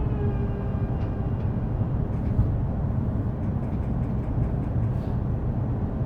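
Interior of an E233 series electric train: the traction motors' inverter whine falls in pitch and dies out about a second in as the train slows to a stop. A steady low rumble follows, with a few faint clicks.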